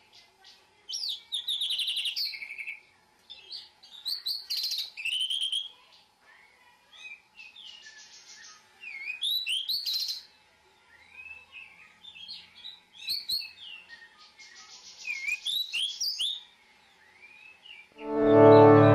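A songbird singing in repeated short phrases of chirps, whistled notes and quick trills. Music begins loudly near the end.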